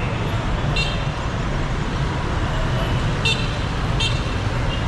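Dense city street traffic running steadily, with several short car horn toots.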